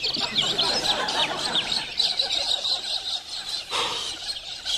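A flock of birds chirping and calling all at once, a dense, loud chorus of many overlapping short chirps. A brief rushing noise cuts across it a little under four seconds in.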